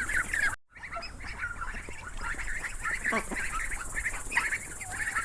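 A flock of domestic fowl calling at once, a dense overlapping chatter of short calls with a few longer calls sliding down in pitch. The sound cuts out completely for a moment just over half a second in, then the chatter resumes.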